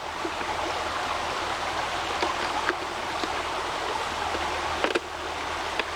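Small mountain creek rushing steadily, with a few faint clicks.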